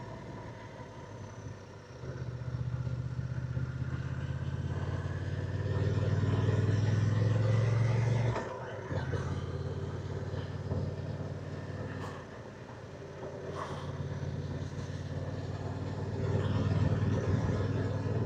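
Motorcycle engine running under way, with a hiss of wind over it. The engine note picks up about two seconds in, drops off sharply a little after eight seconds, then pulls again.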